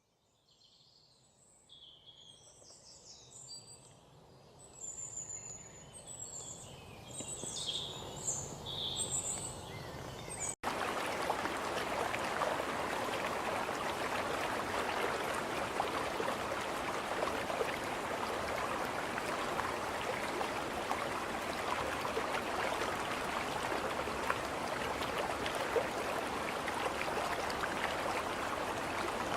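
Songbirds chirping, fading in over several seconds. About ten seconds in, this cuts off abruptly to a steady rush of flowing water.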